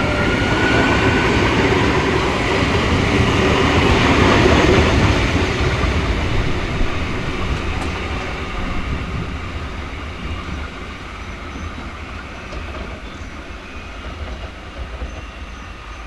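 Adelaide Metro suburban passenger train running on broad-gauge track, its wheel and rail noise loudest about four or five seconds in, then fading steadily as it moves away.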